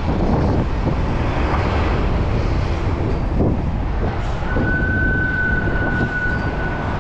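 Steady wind and road rumble on the microphone of a moving bicycle. About four and a half seconds in, a steady high-pitched squeal starts and holds.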